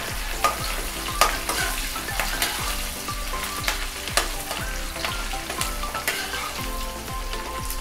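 Chopped onion and green chillies frying in hot mustard oil in a metal kadhai: a steady sizzle with frequent sharp pops, while a steel spatula stirs and scrapes the pan.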